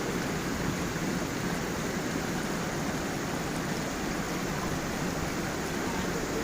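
Gentle stream and small waterfall: a steady, unbroken rush of flowing water.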